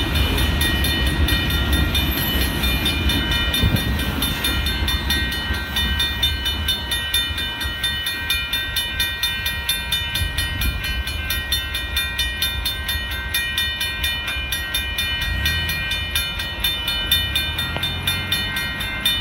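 Freight train cars rolling past a grade crossing, their low rumble fading away within the first few seconds as the last car clears. A railroad crossing warning bell rings on in rapid, even strikes throughout.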